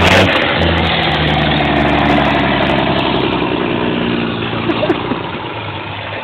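Engine of a deuce-and-a-half army truck running steadily, then easing off and quieter toward idle over the last couple of seconds.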